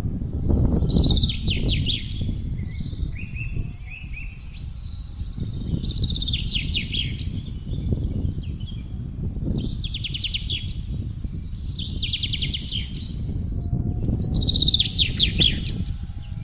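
Songbird singing short, fast trilled phrases, each a quick run of notes, repeated every two to three seconds, over a steady low wind rumble.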